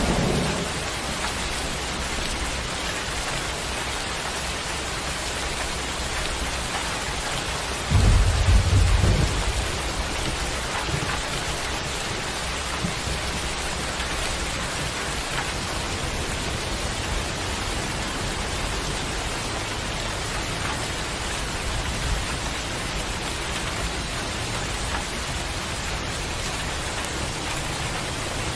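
Steady rain, with a low rumble of thunder dying away at the start and a sudden loud rumble of thunder about eight seconds in that lasts a couple of seconds.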